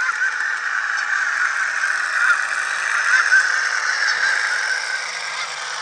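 Galloping Goose rail-motor engine sound from a model railroad sound decoder, played through the small speaker of an HO-scale Budd RDC model: a steady engine sound with no bass, likened to an engine with a bad muffler.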